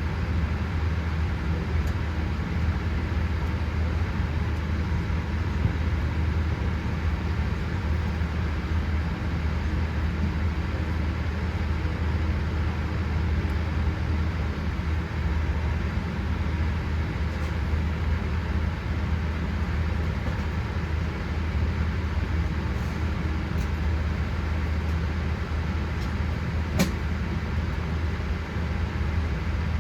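Steady low hum of cabin noise inside a Boeing 787-8 airliner on the ground before takeoff, unchanging throughout, with a single short click near the end.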